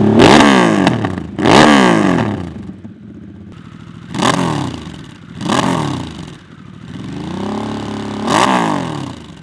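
V-twin motorcycle engine through an aftermarket slip-on exhaust, blipped five times: each rev rises quickly in pitch and falls back to idle, and the last comes after a slower, held climb.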